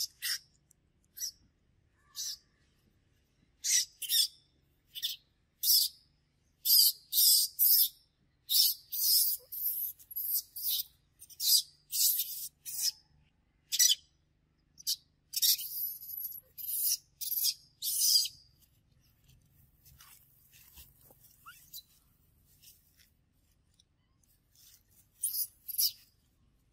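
Bird chirping: many short, high-pitched chirps in irregular clusters, thick through the middle, thinning out, then a last few near the end.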